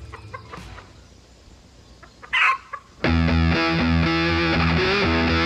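A game hen gives one short, loud squawk a little over two seconds in, with a smaller cluck just after. Then guitar-led background music cuts in abruptly and plays on.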